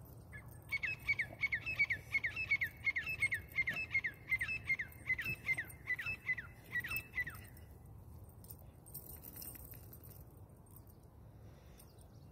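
A bird calling a rapid series of short, downward-slurred notes, about three a second, for some seven seconds before stopping.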